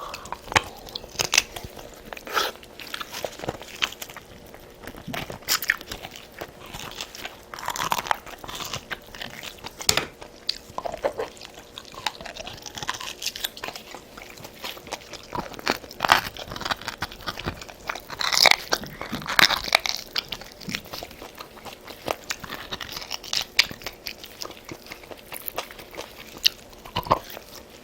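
A person chewing and biting food close to the microphone, with irregular crisp crunches and clicks of eating.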